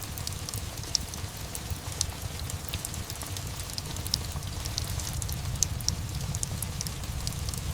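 Steady rain mixed with a crackling wood fire: an even hiss and low rumble, with many small sharp pops scattered throughout.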